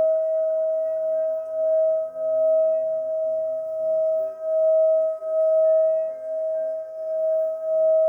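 Singing bowl being sung: one sustained ringing tone with fainter overtones, swelling and fading about once a second.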